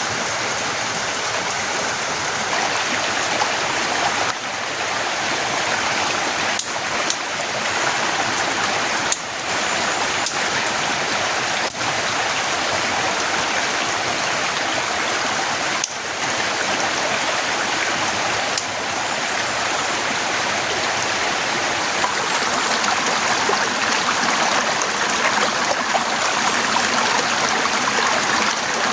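Torrential rain pouring down in a steady, dense hiss, with a few brief dips in level.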